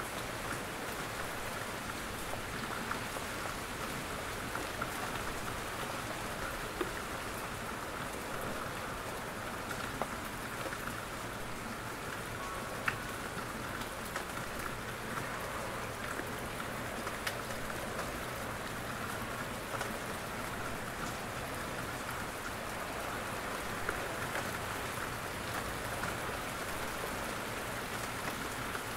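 Steady rain falling in a forest, with scattered single drops ticking from the trees.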